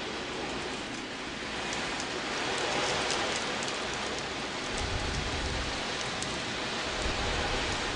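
Wave drum (ocean drum) being tilted so the beads inside roll across the drumhead, giving a surf- or rain-like wash with fine rattling ticks that swells slowly; a low rumble joins about halfway through.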